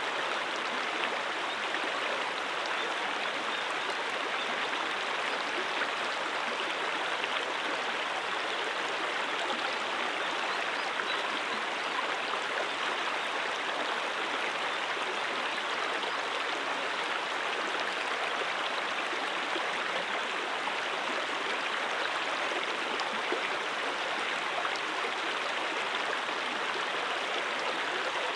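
A brook flowing steadily: an even, unbroken rush of running water.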